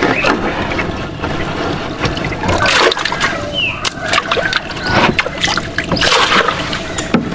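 Water splashing and sloshing in irregular surges, with a few short high chirps about a third of the way in.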